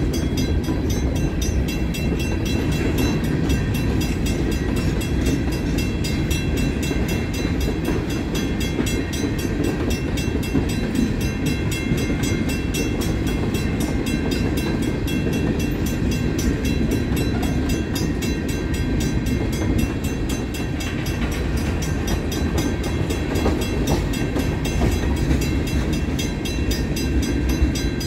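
Freight train of covered steel-coil cars, gondolas and tank cars rolling past: a steady rumble and clatter of wheels on the rails, without letup.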